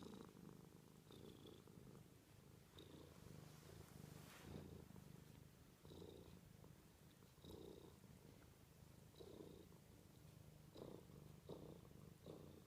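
Domestic cat purring faintly, the low rumble swelling and easing with each breath about once a second.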